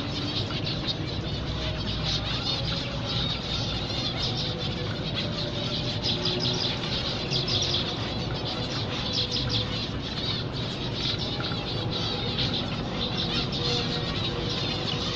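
A colony of zebra finches chirping continuously, many birds calling over one another in quick short notes.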